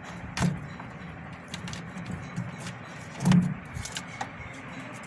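Scattered small clicks and knocks of hands working a pin out of a semi-automatic washing machine's drain valve linkage, with one louder knock a little past three seconds in.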